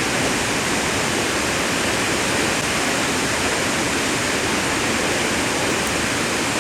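Large waterfall crashing close by: a steady, loud rush of falling water and spray.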